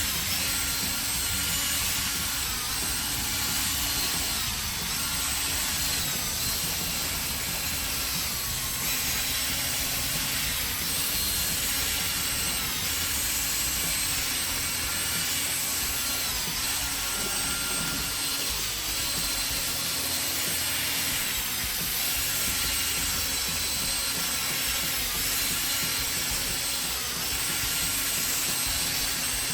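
Drill spinning a 3M 800-grit sanding disc against a plastic headlight lens, running steadily with small shifts in motor pitch as it is passed back and forth.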